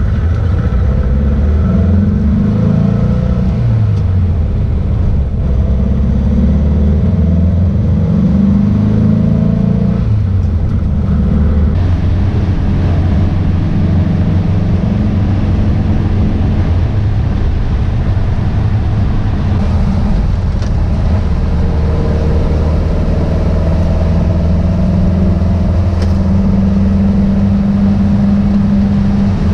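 Freshly rebuilt Porsche 912 air-cooled flat-four engine driving on the road. Its pitch rises and falls several times over the first ten seconds as it accelerates and changes gear, then it runs more steadily and climbs again near the end.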